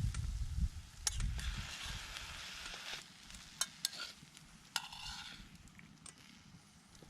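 Food sizzling in a pan over a campfire, in short hissing spells about a second in and again about five seconds in, with sharp clicks of utensils against the pan.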